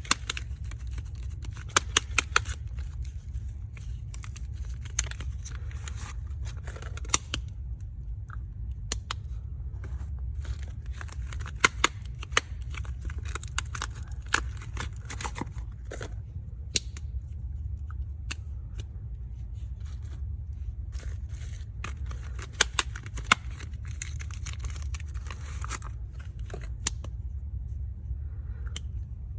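Soap bars being unwrapped: wrapper crinkling and tearing in clusters of crisp clicks and taps, over a steady low hum.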